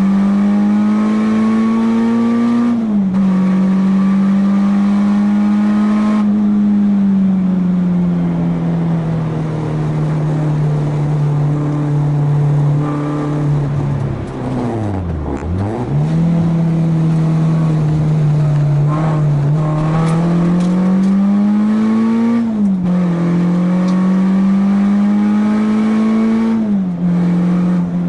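Four-cylinder race-track car engine heard from on board at high revs, pulling with its pitch climbing slowly. The pitch drops sharply at upshifts about three seconds in and twice near the end. About halfway through, the revs plunge steeply and climb back within a second, then pull steadily again.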